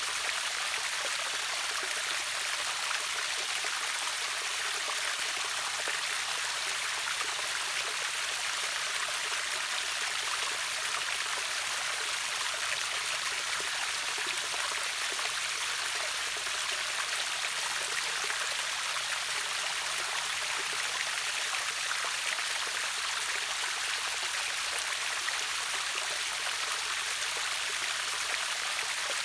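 Waterfall on a river, water falling and rushing in a steady, even hiss with no change in level.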